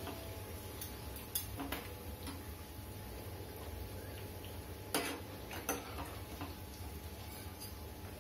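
Battered egg pieces frying in hot oil with a low steady sizzle, while metal slotted spatulas clink against the frying pan several times, loudest about five seconds in.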